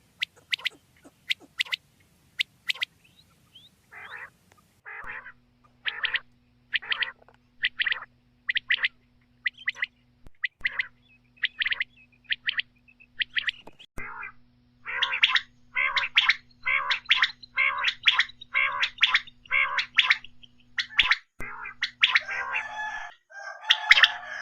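Common quail calling: a long run of short, harsh, repeated notes, about one a second at first and then about two a second, over a faint steady hum.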